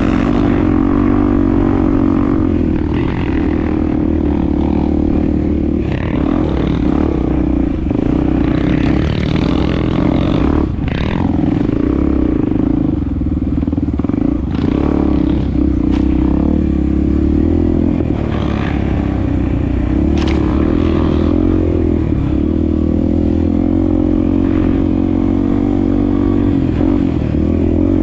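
Honda XR250 Tornado's single-cylinder four-stroke engine running at a fairly steady speed while being ridden, with a few scattered knocks and clatter.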